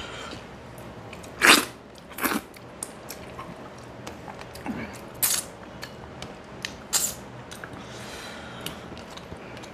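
Close-miked eating sounds: a man chewing a mouthful of rice and fish, with about four short, sharp mouth noises and smaller clicks between them.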